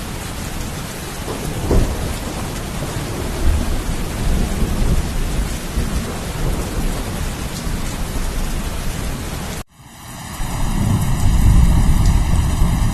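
Steady heavy rain with low rolling thunder rumbling through it. About ten seconds in, the sound cuts out abruptly for a moment, then a differently textured rain recording fades in with a deep rumble swelling under it.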